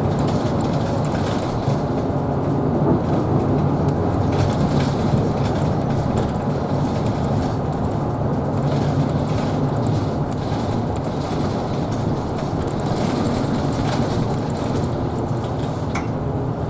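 Isuzu Erga Hybrid city bus running along the road, heard from inside the cabin: a steady drivetrain and road hum with a few faint rattles.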